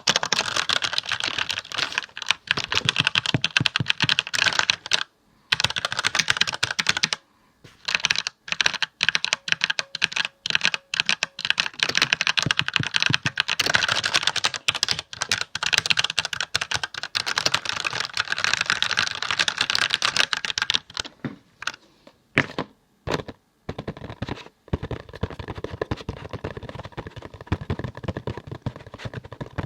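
Fast typing on a computer keyboard: a dense run of key clicks broken by short pauses. The typing thins out about three-quarters of the way through, then resumes more softly.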